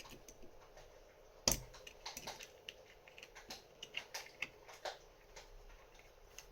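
Small metal parts of a LaGard 2200 safe lock clicking and tapping as they are handled and fitted back together, with one louder knock about a second and a half in.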